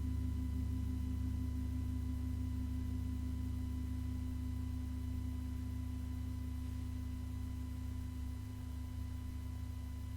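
Singing bowl ringing out: a sustained, steady low hum that slowly fades.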